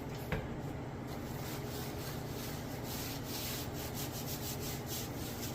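Bone Tactical Space Cowboy machete blade being rubbed clean: a steady rubbing, with a small tick just after the start, that turns into quick repeated scrubbing strokes about halfway through.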